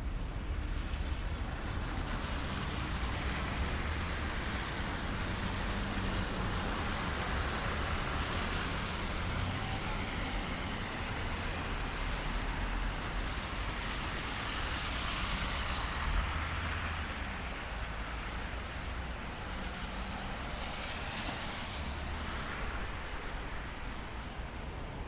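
Steady rain on a city street, with cars going by on the wet road: a tyre hiss swells and fades about three times.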